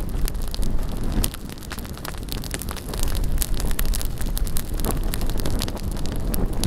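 Large bonfire crackling with many sharp pops, over wind rumbling on the microphone that eases for a couple of seconds about a second in.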